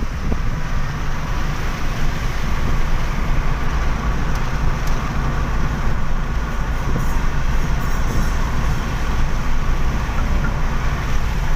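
Steady low rumble of a car driving, tyre and road noise running evenly, on a rainy night.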